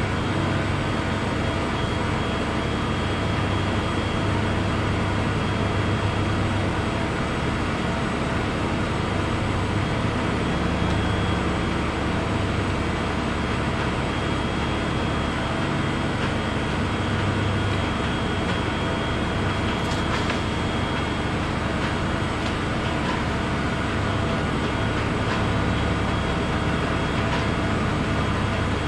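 An engine running steadily at a constant speed, with a low hum and a few faint ticks about two-thirds of the way through.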